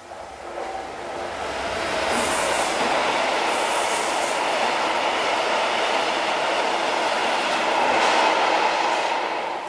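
Class 66 diesel locomotive's two-stroke V12 engine growing louder as it approaches and passes, then a long rake of freight tank wagons rolling by with a steady clatter of wheels on rail and brief high squeals about two and four seconds in. The noise falls away near the end as the last wagon goes past.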